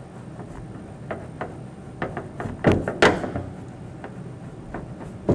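Scattered knocks and thuds, with two louder ones close together about three seconds in.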